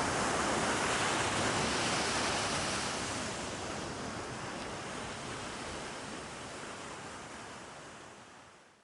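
A steady rushing noise, like surf or wind, fading gradually and dying away to silence near the end.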